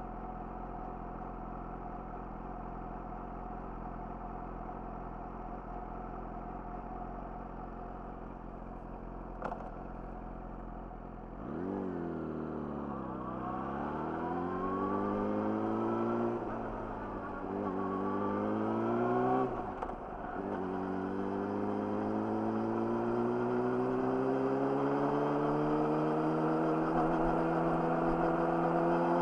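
Yamaha YZF-R6's inline-four with an Akrapovic slip-on exhaust running steadily at low revs, then pulling away about eleven seconds in. The revs climb, with two brief drops as it shifts up, then rise in one long steady climb.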